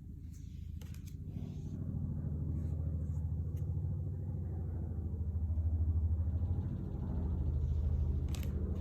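A low steady rumble with a hum in it, growing louder toward the middle and again near the end, with a few faint clicks from playing cards being handled.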